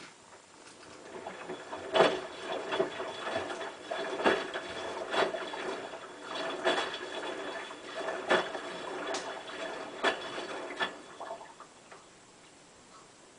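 Hotpoint WT960 washing machine at the start of its wash, water running into the drum with a faint steady whine, broken by sharp knocks roughly once a second. It all stops suddenly near the end.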